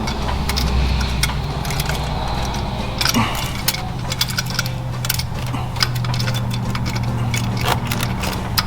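Scattered light metallic clicks and rattles from hands and tools working on the engine, over a steady low hum.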